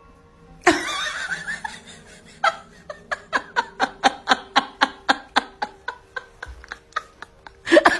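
A person laughing hard: a sudden outburst about a second in, then a fast, even run of short laughing bursts, about four a second.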